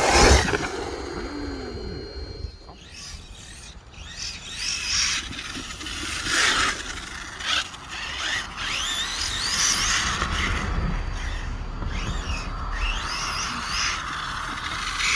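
Arrma Kraton RC truck making repeated short, gliding squeals with mechanical rubbing: the odd squeaks that sound like a woman's voice.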